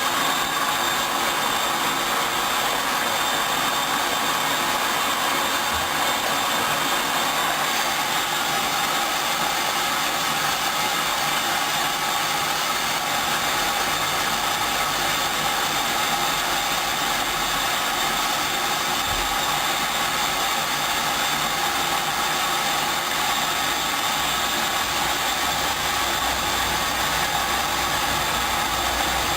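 Hoover Dyn 10124 front-loading washing machine running steadily as it begins its first rinse, a continuous even hum and hiss with a few steady tones.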